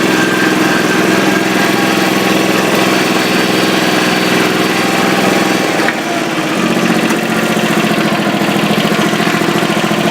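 Small tractor engine running steadily; about six seconds in there is a short click and the engine note shifts up slightly, then holds steady.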